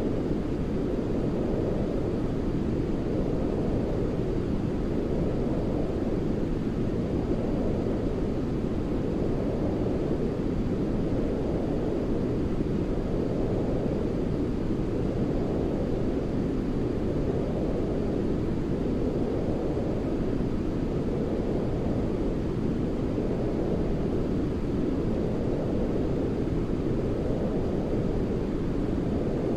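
Steady, deep rushing noise from a baby sleep-noise track, heavy in the low end rather than hissy, with a gentle swell every few seconds.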